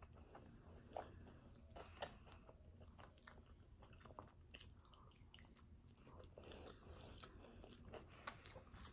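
Faint chewing and biting of birria tacos, a string of soft mouth clicks, with a few sharper clicks about one and two seconds in and near the end.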